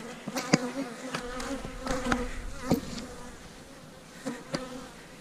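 Honeybees buzzing in flight, a steady hum that wavers slightly, with scattered sharp clicks throughout.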